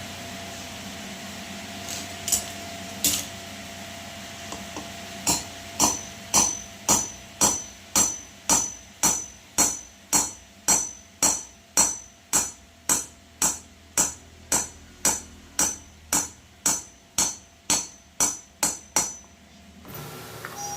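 A hammer striking metal in a steady rhythm, a little under two blows a second, each with a short bright ring, over a faint steady hum. Two single taps come first, and the run of blows stops abruptly near the end.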